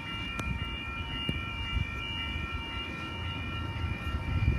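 A 4-car Oscar (H set) electric multiple unit approaching a platform: a steady low rumble with several steady high-pitched whining tones over it.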